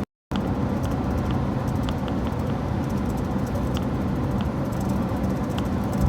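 Truck driving on the road: steady engine and tyre rumble heard from inside the cab. The sound cuts out completely for a moment right at the start.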